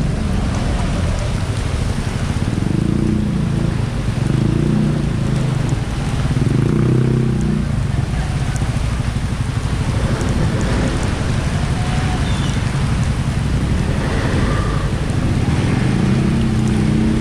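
Motorcycle riding in heavy rain: a steady low engine and road rumble whose note shifts a few times, with rain hiss over it.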